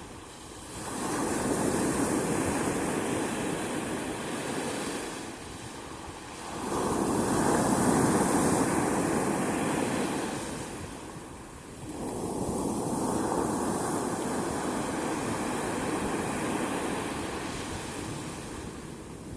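Sea waves washing onto the shore, the surf rising and falling in three long surges about five to six seconds apart.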